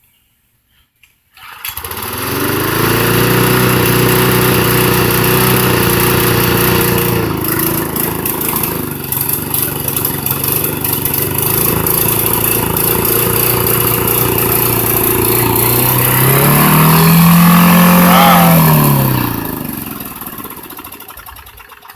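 Lawn mower engine starting, running for about fifteen seconds, then surging up in speed near the end before slowing and dying away. It 'gets excited and then dies', which it is not supposed to do: a sign of a fault in the mower.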